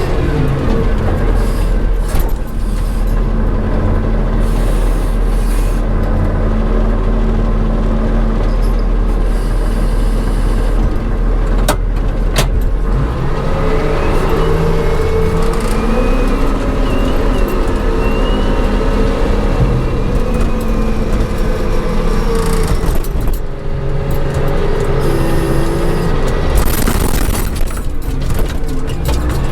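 Payloader engine running under load, its pitch rising and falling in the middle as it works. Two sharp clicks about twelve seconds in.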